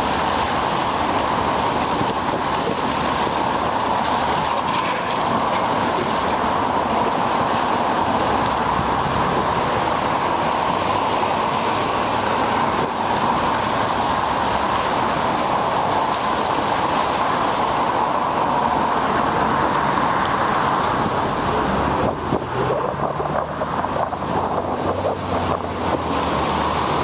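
Steady rush of wind and road noise from a bicycle ride on a rainy day, heard through a bike-mounted camera's microphone. A low motor-vehicle hum joins in during the last several seconds.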